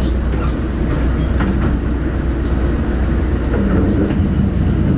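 Running noise heard from inside a diesel railcar under way: a steady low rumble with a few faint clicks of the wheels over the rails.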